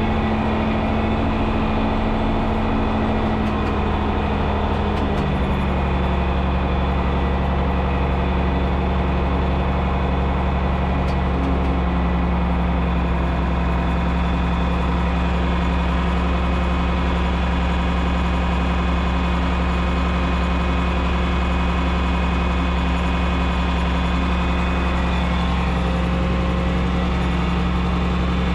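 John Deere 6030's six-cylinder turbo diesel running steadily. Its pitch drops slightly about five seconds in, then holds.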